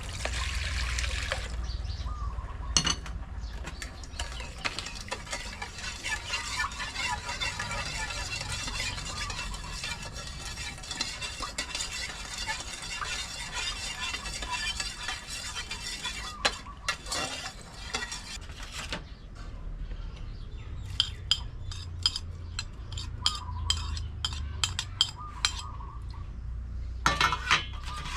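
Kitchen sounds of food being stirred in a pot or pan, a busy scraping texture, then separate sharp clinks and taps of a utensil against the pot in the second half.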